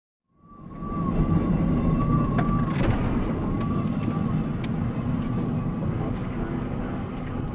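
Steady low rumble of a moving vehicle's engine and road noise, fading in at the start. A wavering high tone rides over it during the first few seconds.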